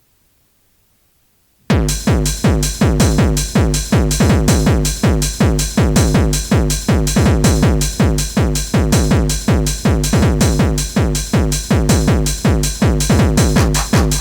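Near silence for under two seconds, then a fast bouncy-techno/hardcore track cuts in suddenly at full level, with a fast pounding kick drum about three beats a second under synth stabs.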